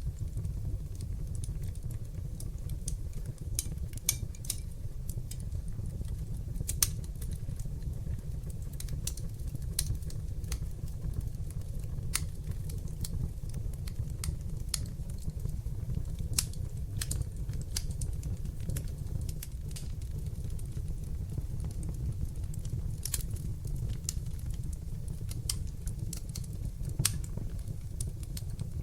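Fire in a fireplace crackling, with irregular sharp snaps and a few louder pops over a steady low rumble of the flames.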